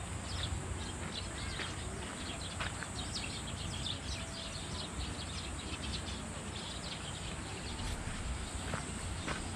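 Outdoor park ambience: a low wind rumble and a steady high hiss, with many short, scattered high chirps and ticks, thickest in the first few seconds.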